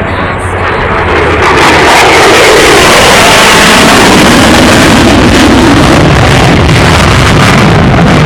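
U.S. Air Force Thunderbirds F-16 fighter jets making a low, loud pass. The jet roar swells about a second in and stays loud, with its pitch sweeping downward as the aircraft go by.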